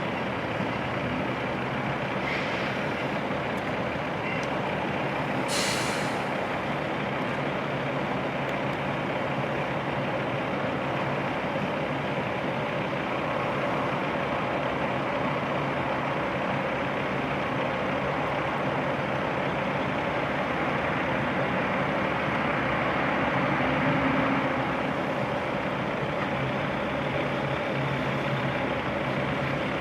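Heavy diesel truck engines running steadily, with a short hiss of released air about five seconds in and a brief swell in engine noise about three quarters of the way through.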